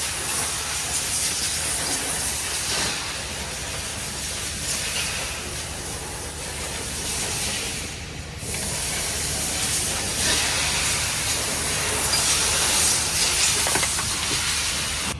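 Loud, steady hissing over a low mechanical hum, easing briefly about eight seconds in.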